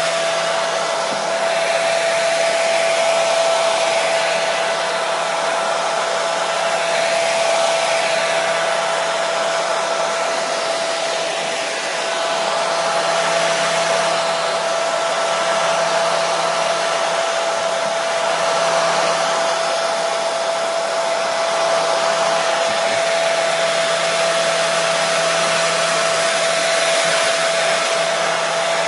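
Hair dryer running steadily without a break: a continuous rush of air with a steady motor whine and a faint low hum.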